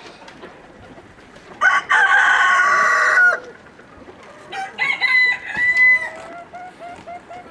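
A rooster crows once, a loud call lasting nearly two seconds, followed a little later by a burst of shorter, squawky chicken calls and clucking.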